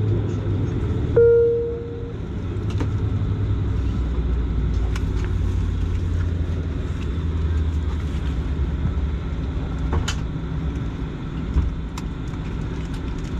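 Steady low drone of a Dash 8 Q400's Pratt & Whitney PW150A turboprop engines running at low ground power after landing. A single short chime tone sounds about a second in, and a few faint clicks come near the end.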